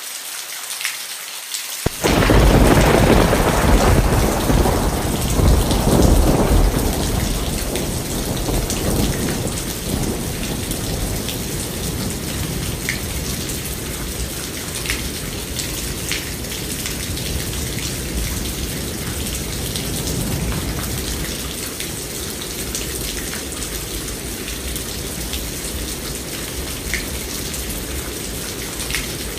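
Steady rain, then about two seconds in a sudden clap of thunder that rumbles on for several seconds and slowly fades under the continuing rain.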